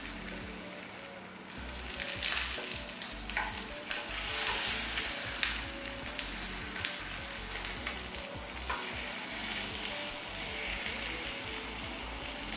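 Egg-coated tofu and Spam blocks sizzling in oil in a nonstick frying pan on low heat, with occasional clicks and scrapes of wooden spatulas as the blocks are turned.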